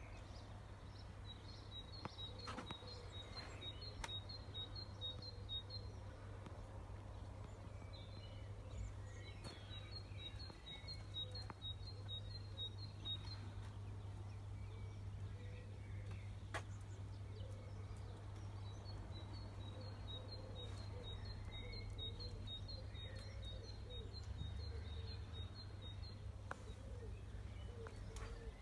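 A small bird singing: bouts of a few seconds of short, high, evenly repeated notes, about three a second, coming three times, over a steady low background rumble.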